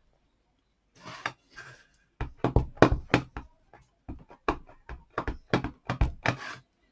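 Photopolymer flower stamp being tapped again and again onto a classic ink pad to ink it: a run of short, sharp taps, a few at first and then a quick series of about a dozen.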